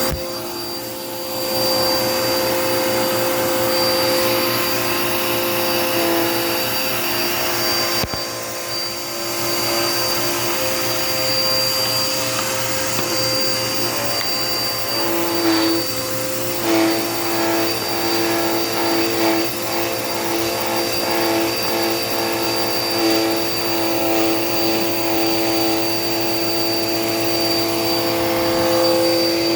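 Dirt Devil Power Max vacuum cleaner running throughout, a steady high motor whine over a rushing hiss, its tone shifting slightly now and then as it works the floor.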